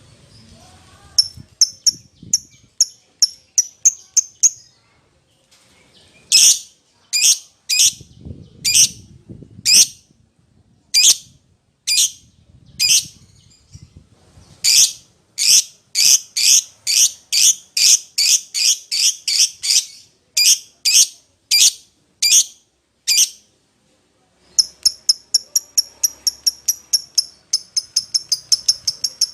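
A lovebird giving shrill, high-pitched calling chirps. They come in quick runs of about three to four a second, with louder single calls about a second apart through the middle.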